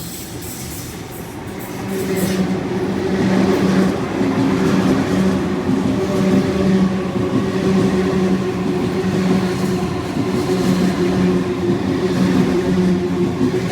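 A train passing close by, with a steady low drone of several pitches that swells about two seconds in and stays loud.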